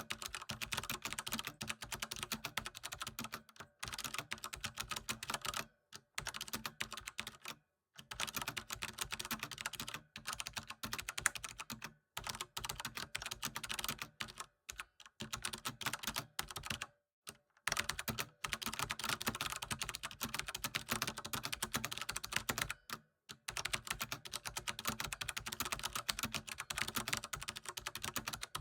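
Computer keyboard typing: rapid, continuous key clicks in runs of several seconds, broken by short pauses.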